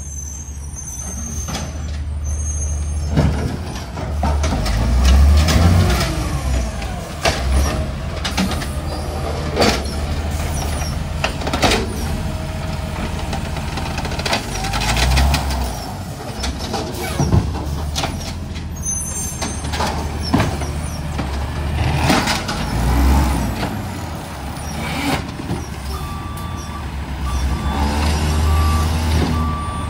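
Garbage truck working: its diesel engine running under load, with repeated air-brake hisses and sharp bangs. A reversing beeper starts near the end.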